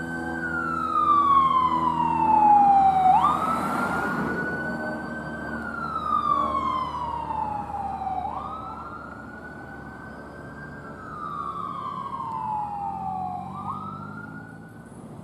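Emergency vehicle siren on wail: each cycle jumps quickly up in pitch, holds briefly, then slides slowly down, repeating about every five seconds. A vehicle's engine hum runs under the first few seconds, and the whole sound grows loudest about two to three seconds in, then fades as the vehicle moves away.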